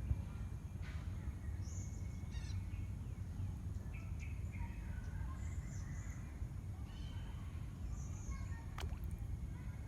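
Bird calls over a steady low rumble. Short high notes come every few seconds, with a lower run of calls in the middle and one sharp click near the end.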